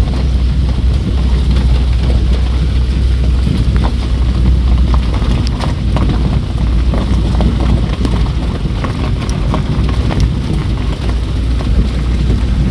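Rain falling, with scattered sharp drop ticks over a heavy, steady low rumble.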